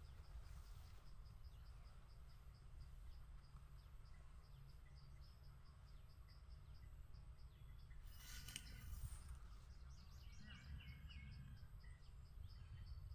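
Faint outdoor ambience: an insect chirping in a steady, fast pulse over a low rumble, with a brief rustle about eight seconds in and a few short bird-like calls shortly after.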